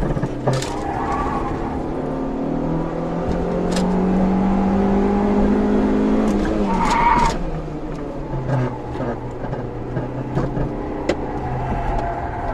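Honda CRX's four-cylinder engine heard from inside the car, revs climbing steadily in one gear for several seconds, then dropping sharply as the throttle closes. A brief tyre squeal comes about seven seconds in, and the engine then runs on at lower revs, with scattered sharp clicks.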